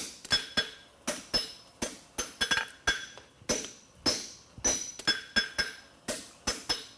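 Farrier's hammer striking hot steel bar stock on an anvil, about three blows a second in an uneven rhythm, each with a bright metallic ring, while forging a horseshoe branch.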